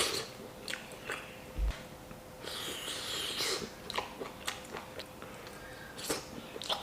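A person biting and chewing a piece of grilled meat with their mouth close to the microphone, making scattered short wet clicks. About halfway through there is a longer breathy hiss.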